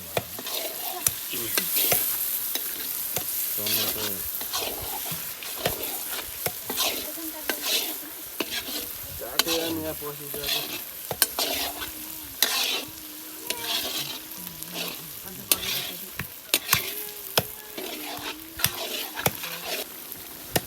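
Chicken frying in a pan with spices, sizzling steadily while a ladle stirs it, with frequent sharp scrapes and clicks of the ladle against the pan.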